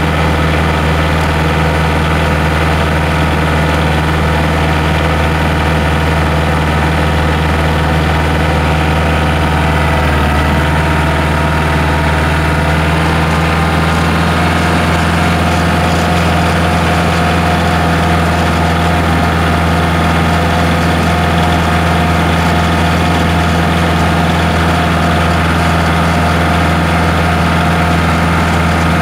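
A vehicle engine running steadily under a towing load, a constant low drone with a thin whine coming in about halfway through.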